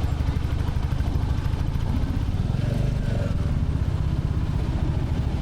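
Royal Enfield Classic 350's single-cylinder engine running steadily, a dense low thumping exhaust note.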